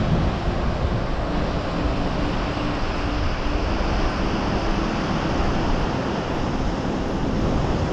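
Wind rushing over the microphone with the steady wash of sea surf on a beach.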